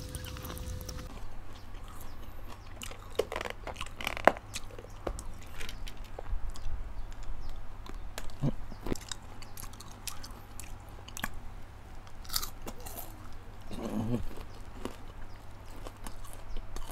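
A person chewing and crunching caramel-coated popcorn, with irregular crisp crackles and clicks of the hard caramel shell between the teeth.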